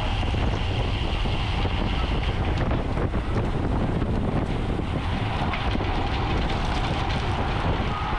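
Steady wind noise buffeting the microphone of a camera carried on a moving racing bicycle.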